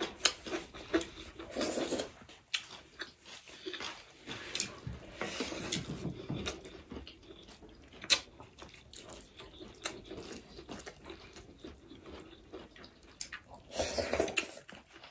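Close-up eating sounds of a mukbang meal of rice, dal and curry: wet squelching and chewing, with sharp clicks now and then, the loudest about eight seconds in.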